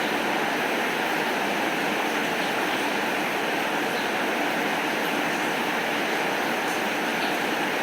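Steady rain falling, an even hiss at a constant level, with a few faint high ticks scattered through it.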